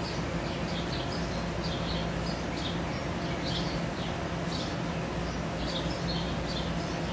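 Small birds chirping in short repeated bursts, over a steady low hum.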